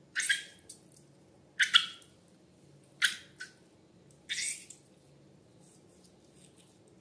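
Wet, sticky slime squelches as slime is handled, four short crackling squishes about a second and a half apart.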